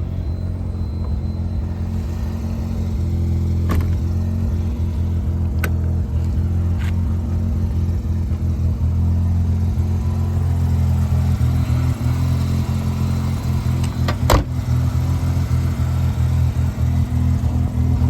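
Mazda RX-7 twin-rotor rotary engine idling steadily through its exhaust, warming up after a cold start. A few sharp clicks sound over the idle, the loudest about fourteen seconds in.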